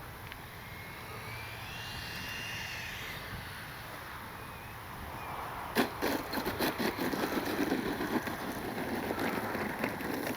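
Electric ducted fan of an FMS 80mm Integral RC jet whining faintly on landing approach, then a sudden knock about six seconds in and several seconds of rattling and clattering as the metal landing gear touches down and rolls out.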